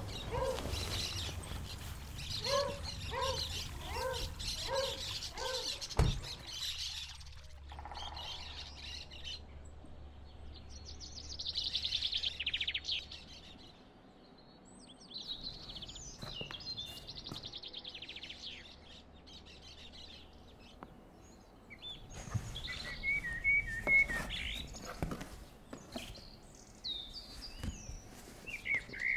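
Birds chirping and singing on and off, with a run of about six evenly spaced lower call notes in the first few seconds. A single sharp thud comes about six seconds in.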